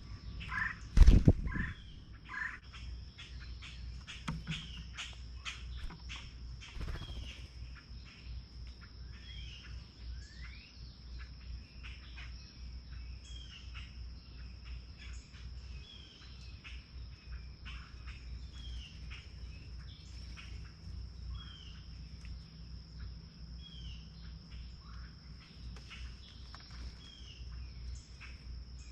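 Small birds chirping repeatedly, short curved call notes one after another, over a steady high insect drone. About a second in there is a single loud thump.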